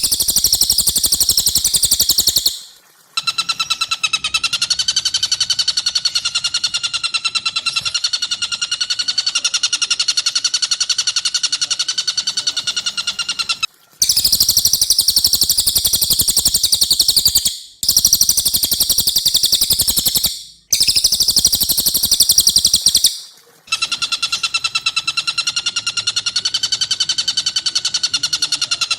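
Two caged songbirds' calls alternate in edited spells. Very high, dense chirping from the Cililin comes at the start and in three short spells a little past the middle. Between these runs a long, rapid, evenly pulsed laughing call, the Tengkek Buto's long ngekek.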